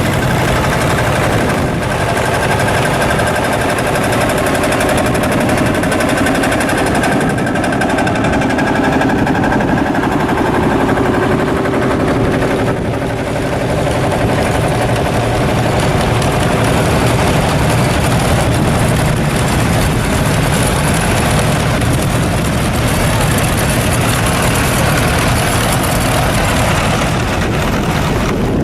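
Vintage tractor engines running and idling steadily, their pitch shifting a little as they run.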